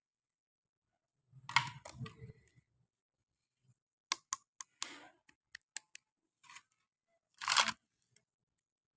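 Handling of a plastic toy and its packaging: a rustle with dull knocks, then a run of sharp clicks and a final short rustle.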